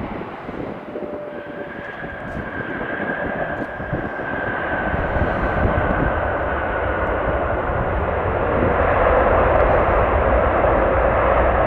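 Jet airliner's engines growing steadily louder as it comes closer, with a high engine whine that slowly drops a little in pitch.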